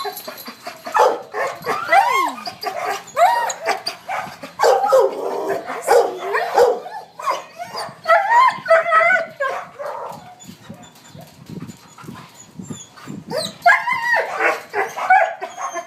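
Dogs barking and whining: a run of short yips, barks and whines that rise and fall in pitch. They ease off about two thirds of the way through and start again near the end.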